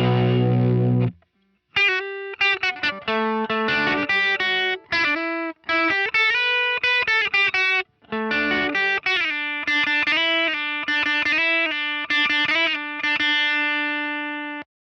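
Telecaster-style electric guitar played through a JHS Colour Box into a cranked AC30 amp simulation, mildly overdriven. A distorted chord rings for about a second, then after a short break come single-note lead phrases, ending on a long held note that fades and cuts off near the end.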